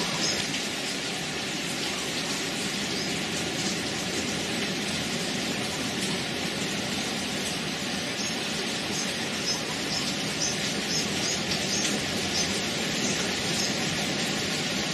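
Steady rain falling, an even hiss with small drops ticking here and there.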